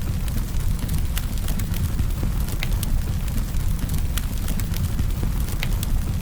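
Campfire burning with a steady low rumble of flames and frequent sharp crackles and pops of wood.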